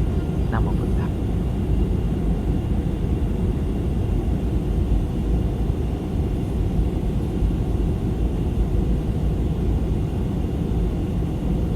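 Steady low rumble of an airplane in flight, engine and airflow noise heard from inside the cabin, with a few faint clicks about half a second in.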